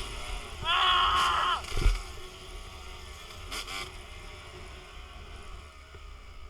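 Dirt bike engine revving high for about a second, falling off at the end, with a sharp thump just after. Then mostly a low rumble of wind buffeting the microphone.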